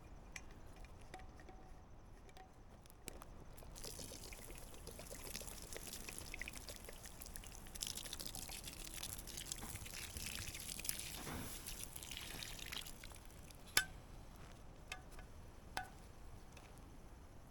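Liquid being poured in a steady stream for about nine seconds, then three light clicks.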